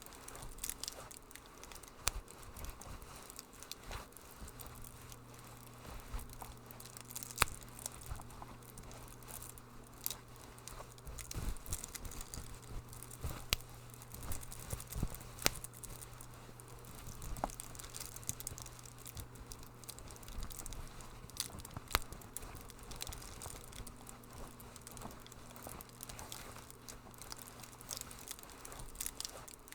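Wood fire crackling in a fireplace: irregular sharp pops and snaps, a few louder than the rest, over a soft steady hiss.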